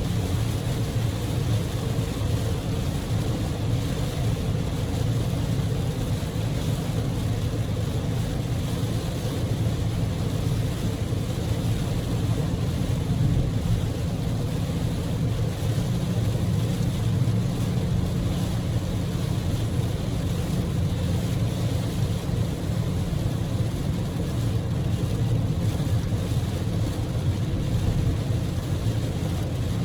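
Daihatsu Move (L150S) driving at speed through heavy typhoon rain, heard from inside the car: a steady rush of rain and tyre spray over a low drone of road and engine noise.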